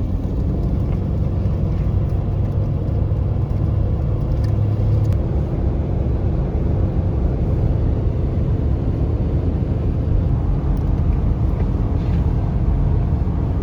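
Steady low rumble of a car in motion, heard from inside the cabin: even engine and road noise with no change in pace.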